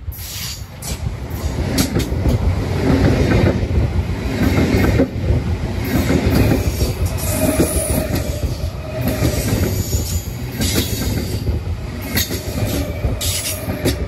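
A train passing close by: wheels clattering over the rail joints, with short bursts of high wheel squeal. It builds over the first two seconds and then holds loud.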